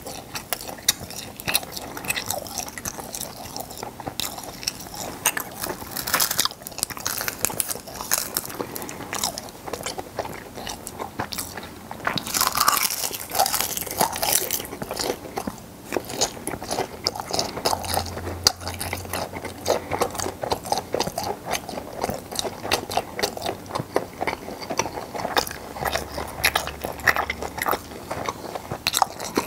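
Close-miked eating of gwamegi, half-dried fish: continuous biting and chewing with many small, crisp crunching clicks, loudest about twelve to fourteen seconds in.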